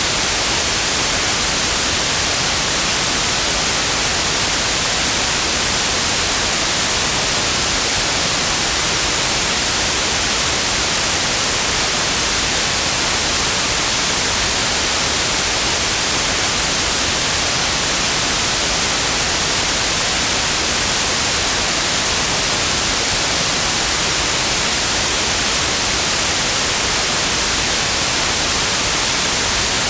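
Steady, unchanging synthetic white noise: an even hiss strongest in the high frequencies, with no breaks or events.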